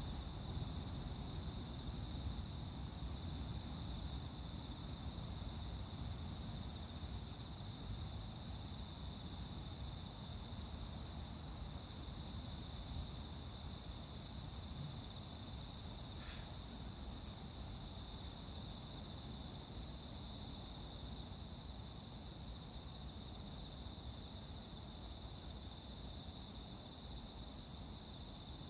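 Crickets and other night insects trilling in a steady, continuous high-pitched chorus over a low background rumble. A short rising chirp cuts through once, about sixteen seconds in.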